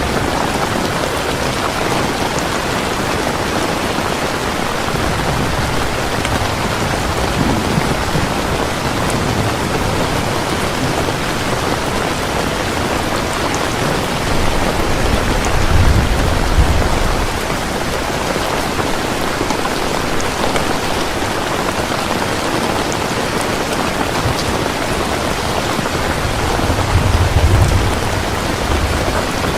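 Heavy rain falling steadily, with two low rumbles of thunder, one about halfway through and one near the end.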